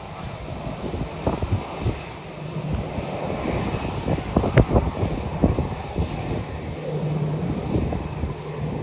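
Airbus A350-900's Rolls-Royce Trent XWB jet engines as it lands, a steady jet rumble with a low hum. Heavy wind buffets the microphone throughout, with many sharp gust thumps.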